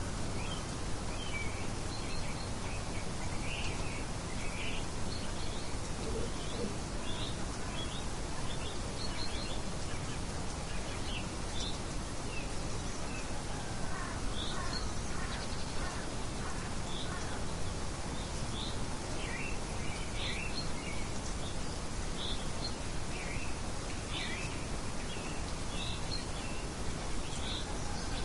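Birds chirping, with short scattered chirps and calls throughout over a steady hiss of outdoor ambience.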